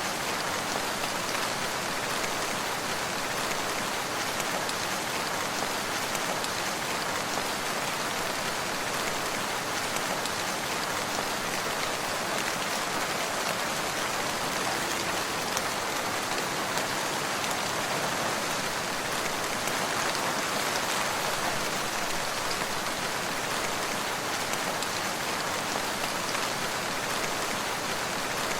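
Steady rain falling, an even hiss of many drops on surfaces with no breaks or thunder.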